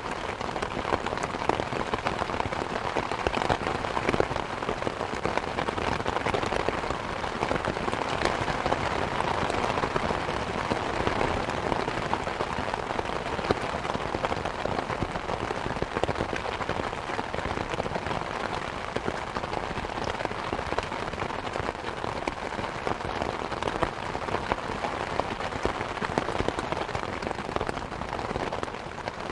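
Steady rain falling, with frequent small sharp crackles and pops from a wood fire in a fireplace mixed in.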